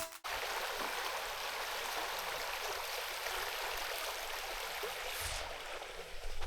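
Stream running: a steady rush of flowing water.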